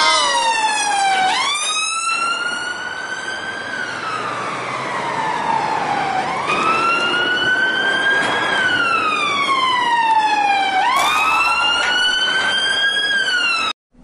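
Electronic siren of a battery-operated toy army vehicle: a loud wailing tone that jumps up, climbs slowly, then falls slowly, repeating about every five seconds over a steady rushing noise. It cuts off suddenly near the end.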